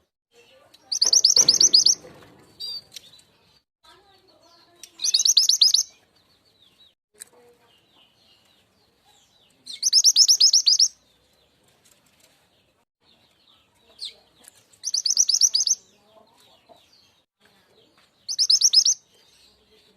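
Mountain mantenan (truntung weru) song used as a trapping lure: five loud bursts of fast, high-pitched trilled notes, each about a second long and coming every four to five seconds, with faint chirps between.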